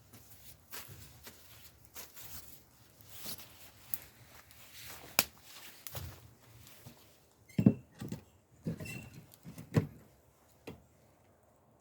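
Irregular knocks and clatter of objects being handled and set down, busiest in the second half, with two of the knocks leaving a short metallic ring.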